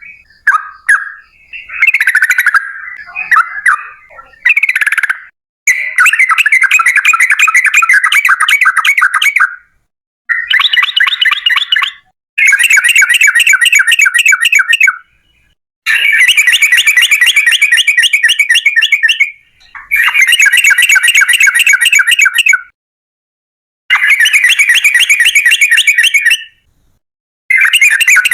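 Yellow-vented bulbul (trucukan) singing. A few short chattering phrases come first, then long, rapid runs of repeated notes, each lasting two to four seconds with brief pauses between.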